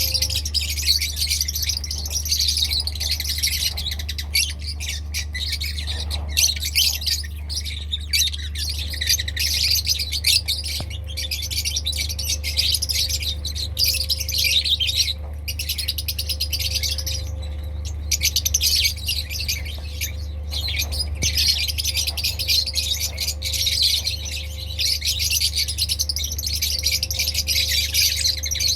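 Many lovebirds chattering and squawking at once in a continuous stream of shrill, rapid calls, over a steady low hum.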